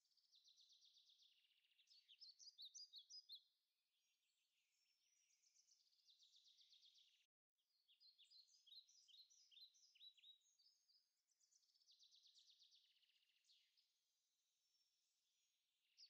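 Faint birdsong: clusters of rapid, high chirps and trills, with a brief total dropout about seven seconds in.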